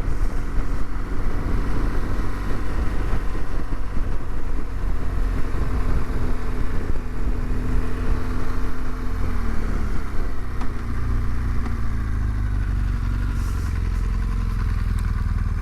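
Motorcycle engine running under heavy wind rumble while riding; about two-thirds of the way through, the engine note falls as the bike slows.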